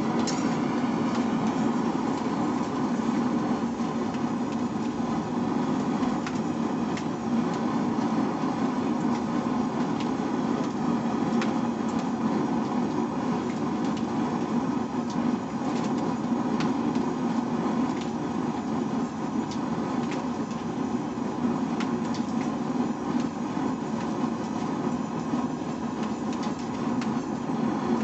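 Forge running: a steady, unbroken rushing noise of the forge's fire and air, with a few faint ticks scattered through it.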